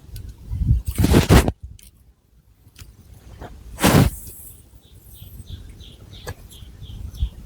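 Long fingernails scratching through thick hair and over the scalp in separate scratchy strokes, the loudest about a second in and near four seconds in.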